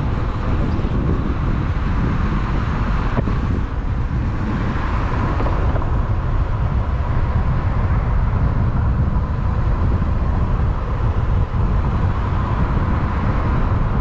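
Steady low rumble of a vehicle in motion, unbroken throughout, with a faint steady higher hum over it.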